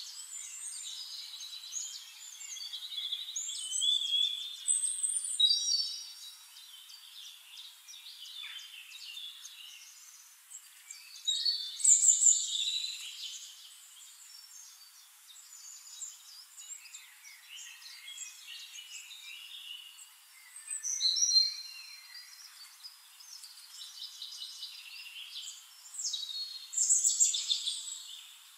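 Birdsong: several birds chirping and trilling throughout, with louder phrases of song about four times. The sound is thin, with nothing in the low range.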